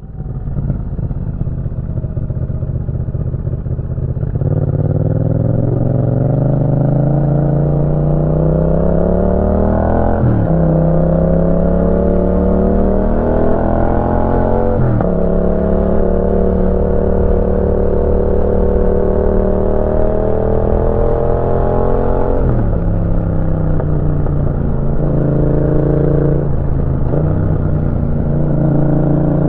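Yamaha MT-07's parallel-twin engine through a Roadsitalia titanium aftermarket exhaust, riding: the engine note climbs and drops sharply at upshifts about 10 and 15 seconds in. It holds fairly steady, falls off about three quarters of the way through, then climbs again near the end.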